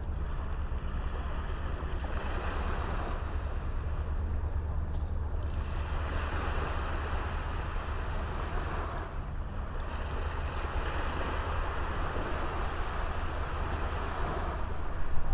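Sea waves washing onto a small beach, the surf swelling and easing twice, over a steady low rumble.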